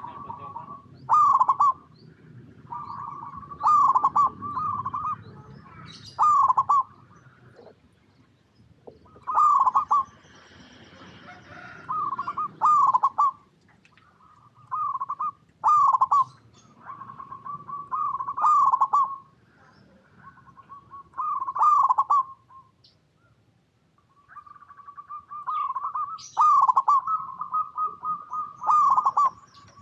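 Zebra dove (perkutut) cooing: short phrases of a held coo breaking into a few quick hooked notes, repeated every two to three seconds, over a low background rumble.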